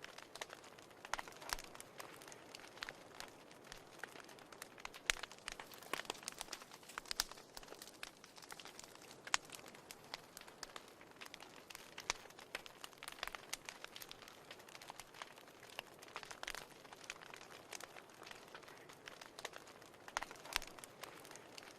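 Wood fire burning in a fireplace: irregular sharp crackles and pops, several a second, over a soft steady hiss.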